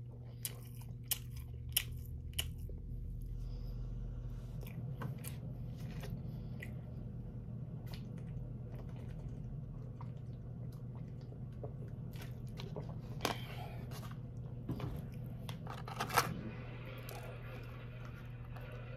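Close-up chewing of fried chicken nuggets: wet mouth sounds and crunching, with sharp clicks scattered through, several in the first couple of seconds and louder ones later. A steady low hum runs underneath.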